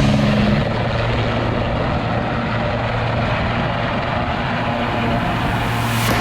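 Helicopter running: a steady, dense engine and rotor noise with a constant low hum.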